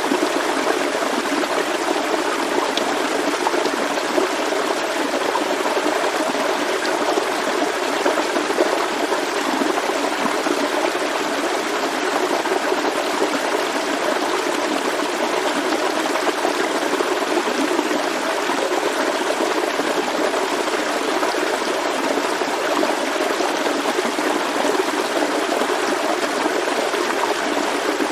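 Small forest stream flowing and trickling steadily, an even, unbroken rush of water.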